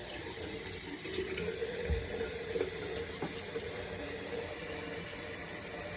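Bathroom tap running steadily into the sink, with a soft thump about two seconds in.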